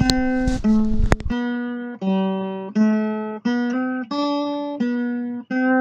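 Acoustic guitar music: a slow line of single plucked notes, each ringing and fading before the next. A noisy background under the first second cuts off, leaving only the guitar.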